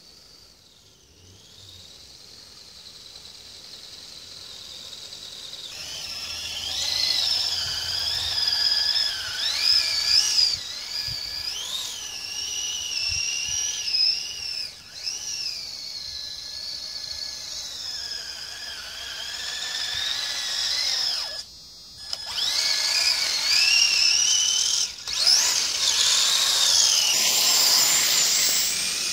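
Electric motors and gear drive of a twin-chassis Kyosho Blizzard RC tracked vehicle whining as it drives, the high whine rising and falling in pitch with the throttle. It grows from faint to loud over the first several seconds and drops out briefly twice in the second half.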